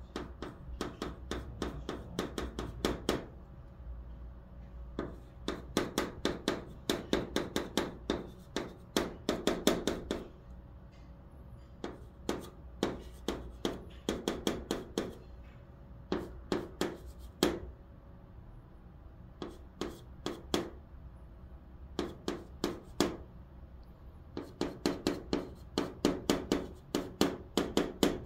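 Chalk writing on a blackboard, hanja characters being written stroke by stroke: quick runs of sharp taps and short scrapes, broken by brief pauses every few seconds.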